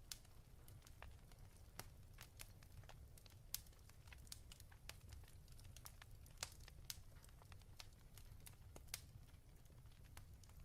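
Faint fireplace crackling: irregular sharp pops and snaps, a few louder than the rest, over a low steady rumble.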